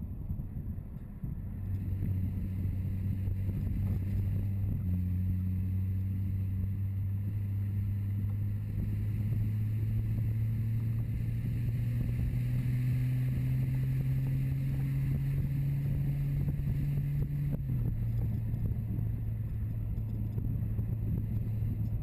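BMW 4 Series Gran Coupe engine pulling steadily as the car drives, with road and wind noise from the car-mounted camera. The engine note climbs slowly and then steps down once, about three quarters of the way through.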